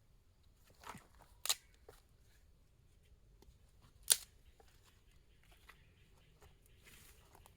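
Two sharp clicks, about a second and a half in and about four seconds in, the second the louder, with faint scattered rustling and handling sounds between them.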